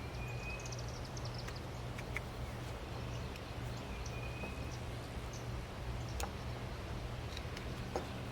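Carving knife making small cuts in a wooden block, heard as scattered light clicks, over a steady low hum. A few brief high chirps, like faint birdsong, come through a little after the start and again around the middle.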